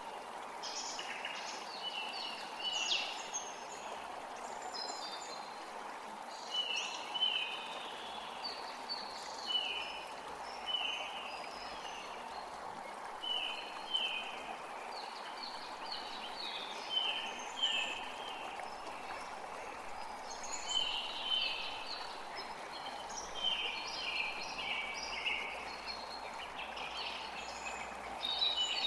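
Forest creek running steadily, with several birds singing over it in repeated short chirps, many of them in quick pairs.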